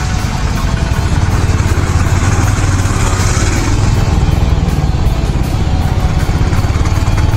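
Royal Enfield Hunter 350's single-cylinder engine running steadily on the move, with a rapid even beat of exhaust pulses under a steady rush of wind and road noise.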